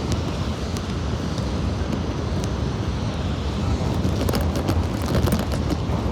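Steady rumble of wind buffeting the microphone over the hiss of pouring rain and street traffic, with a run of sharp ticks from about four seconds in.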